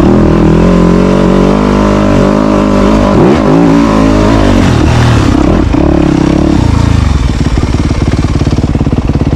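Dirt bike engine running hard, its pitch rising and falling as the throttle is worked. Near the end it settles into a slower, pulsing low-rev chug.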